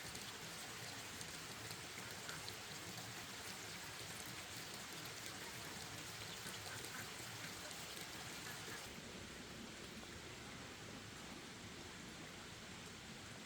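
Faint, steady patter of light rain. The high hiss drops away about nine seconds in.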